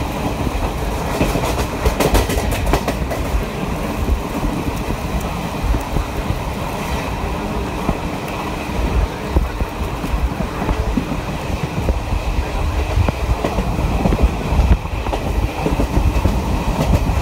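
Jan Shatabdi Express passenger train running at high speed, heard from on board: a steady rumble and rush of the wheels on the rails, with the clickety-clack of wheels over the track and a run of sharp clicks about two seconds in.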